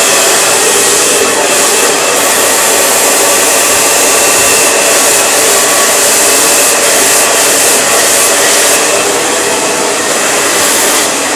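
Handheld blow dryer running steadily on high, its airflow directed down a section of long hair held taut on a round brush, blowing along the cuticle to smooth and close it.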